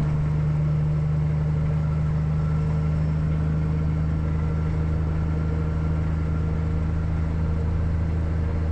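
Peterbilt semi truck's diesel engine running under load while pulling up a steep grade, a steady low drone that holds an even pitch.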